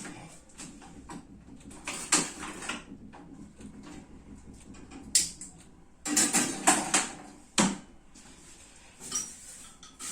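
Kitchen clatter: a few separate knocks and clinks of a pan and utensils at the stove, with a cluster of them a little past the middle.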